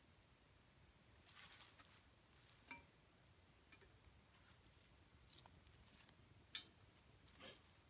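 Faint, scattered crackles and pops of a small twig fire in a camp fire stand, a short cluster about a second in and a sharper pop near the end.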